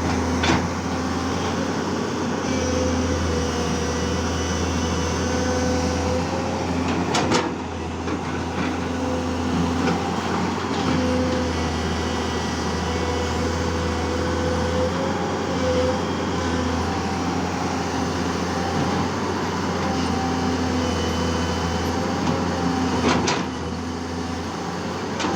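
Tata Hitachi 210 Super Plus excavator's diesel engine running steadily with a whine over it, the note shifting slightly as the load changes, and a few sharp clanks, one about a third of the way in and one near the end.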